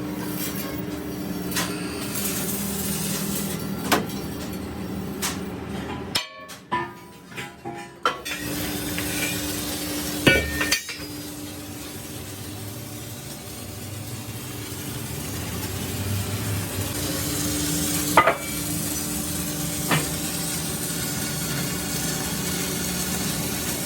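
Workshop sounds: sharp metal knocks and clinks every few seconds over a steady machine hum.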